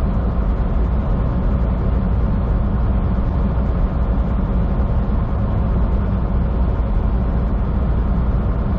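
Steady low drone of a semi truck's diesel engine and road noise heard inside the cab while the truck is being driven.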